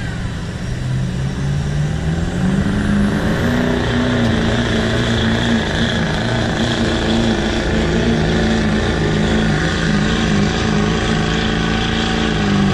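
Diesel engine of a pulling vehicle revving up about two seconds in, then held at high revs under heavy load through a pull, and dropping off at the very end.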